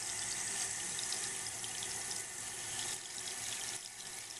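Toilet tank refilling through its older Fluidmaster 400A fill valve: a steady hiss of water running into the tank of a 2000 Briggs Vacuity toilet. It is a slow fill, with the water level already up at the overflow tube and the valve not yet shut off.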